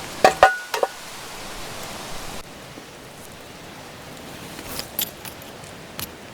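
A few sharp metallic clinks with a brief ring in the first second, over a steady hiss of outdoor noise; a few lighter ticks follow near the end.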